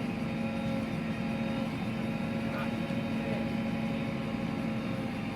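Diesel engine of an earth-moving machine running steadily at a constant speed, with an even hum.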